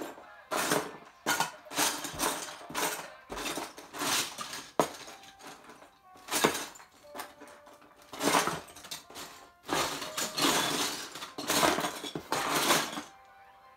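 Loose Lego bricks clattering as a hand rummages through a pile of pieces, in a dozen or so short, irregular bursts that stop near the end.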